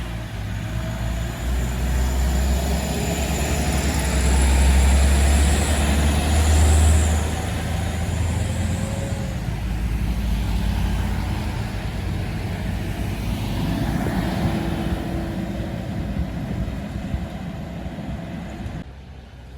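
A heavily loaded diesel truck's engine running hard on the road, with a deep rumble that peaks a few seconds in and a high whine over it. After that comes steadier traffic noise, which drops away suddenly near the end.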